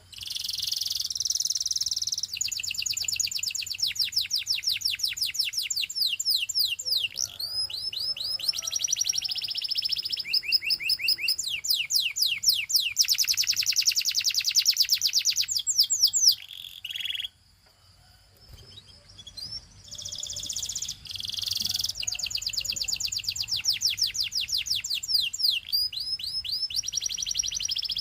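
Domestic canary singing: long runs of rapid trills and quickly repeated sweeping notes, with a break of about two seconds a little past the middle.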